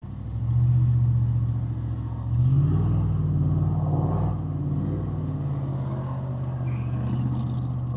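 A car's engine and road noise heard from inside the cabin as the vehicle picks up speed. The low engine note steps up in pitch about two and a half seconds in, then holds steady.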